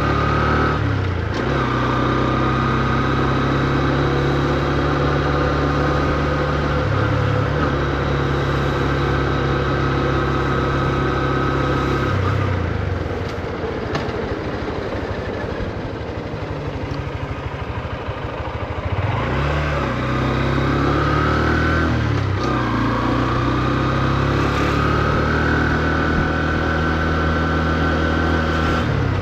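Honda CB125F's single-cylinder engine running at modest revs while the bike rides through town, with gear changes and pitch rising under throttle. The engine eases off into a quieter stretch just before the middle, then picks up again through the gears. It is kept at low revs because the engine is still being run in.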